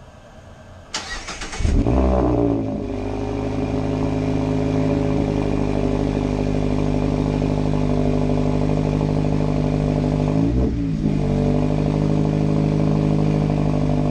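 Mazda MX-5 ND's four-cylinder engine with a RoadsterSport Race exhaust being started: a short burst of starter cranking, then it catches with a rev flare and settles into a steady idle. There is one brief throttle blip about ten and a half seconds in.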